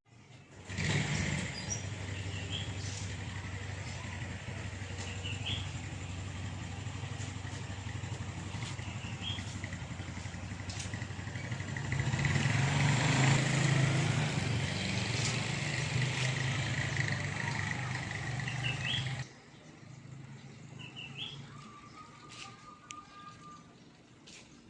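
A vehicle engine running nearby, a steady hum that swells for a few seconds about halfway through and then cuts off abruptly. Short rising bird chirps come every few seconds over it and continue in the quieter yard ambience afterwards.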